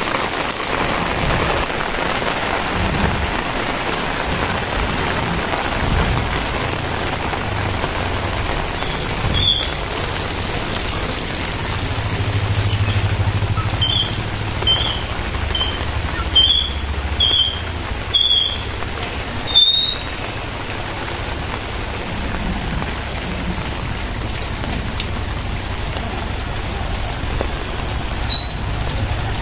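Heavy rain falling steadily. A run of short high chirps cuts through it in the middle, and one more comes near the end.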